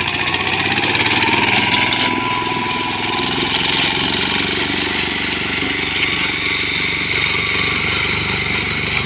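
Wheat reaper-binder running: its small engine chugs steadily at a fast, even beat under a continuous metallic clatter from the cutting and binding mechanism.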